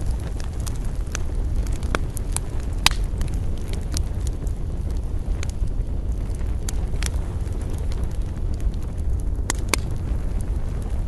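Wood campfire crackling: irregular sharp snaps and pops, a loud one about three seconds in and another near the end, over a steady low rumble.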